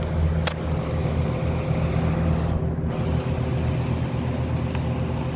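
Three electric fans running together: a steady whirring hum with a faint steady tone, and one brief click about half a second in.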